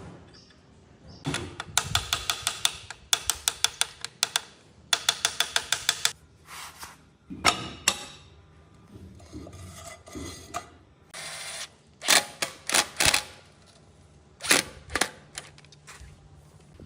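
Rapid mechanical clicking in short bursts of about a second each, repeated some six times with pauses between.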